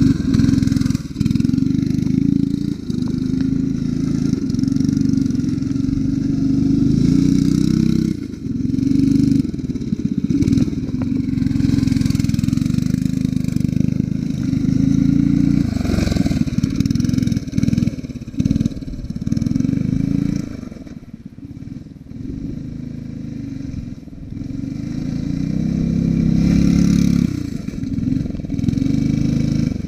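8 hp engine of a 1960s Rupp go-kart running under load, its revs rising and falling again and again. The engine drops to a lower, quieter run for a few seconds about two-thirds of the way through, then revs back up.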